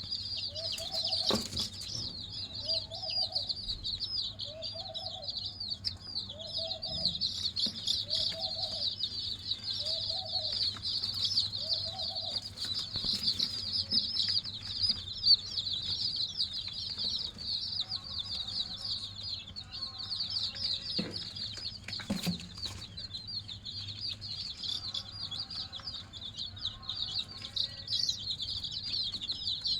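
A crowd of young chicks peeping nonstop. For the first dozen seconds a lower clucking call repeats evenly about every second, eight times or so, with fainter clucks later on.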